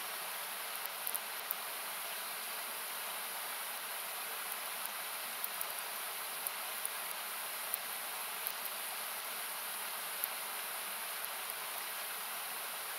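Steady rushing of a river, with the sharp, irregular crackle and pop of a wood campfire over it, about a dozen pops scattered through.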